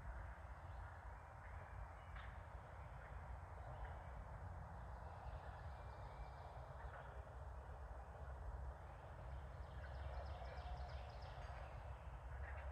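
Faint outdoor wildlife ambience over a steady low rumble, with a short, rapid rattling animal call about ten seconds in.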